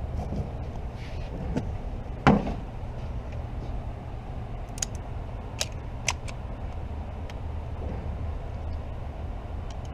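One solid knock about two seconds in, then a few sharp light clicks, over a steady low rumble.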